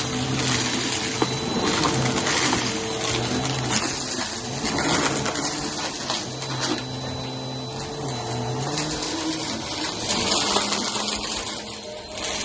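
Bissell Helix vacuum cleaner running over carpet, sucking up crunchy cereal with a busy crackle over the steady motor noise; the motor hum wavers in pitch as the load changes.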